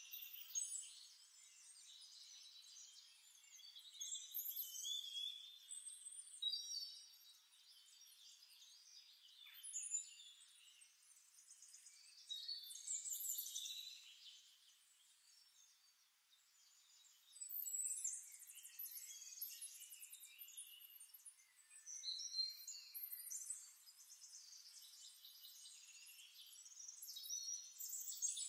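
Faint, high-pitched bird-like chirping and twittering that comes in clusters every few seconds, with nothing in the low range.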